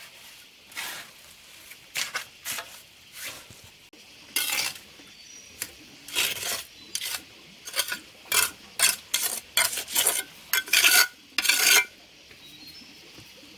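A metal tool scraping and clinking on a hard surface in a series of short strokes, sparse at first and coming quickly one after another in the second half.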